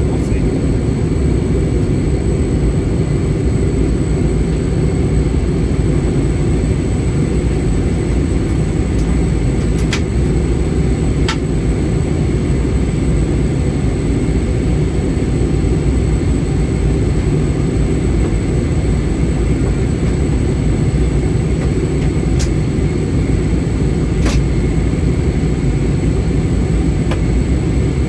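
Cabin noise of an Airbus A320 airliner: a steady low roar from the engines and airframe, with a faint thin high whine and a few faint clicks.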